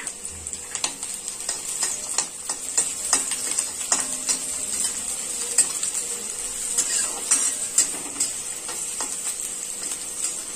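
Chopped garlic, ginger and green chilli sizzling in hot oil in a kadhai, with a steady hiss and a spatula scraping and clicking against the pan many times as it stirs.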